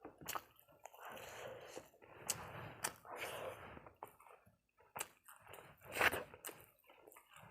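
Close-miked eating: a person chewing food, with short wet mouth clicks. There is a louder noise about six seconds in.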